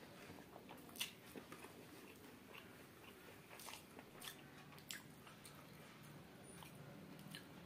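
Faint eating sounds: chewing a mouthful of chicken biryani, with a handful of sharp, wet clicks, the loudest about a second in.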